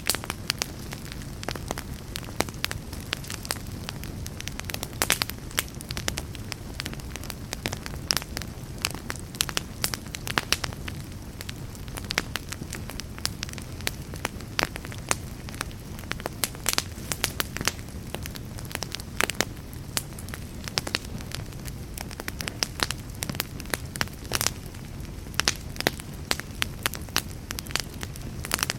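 Wood fire burning in a fireplace: frequent, irregular sharp crackles and pops from the burning logs over a steady low rumble of the flames.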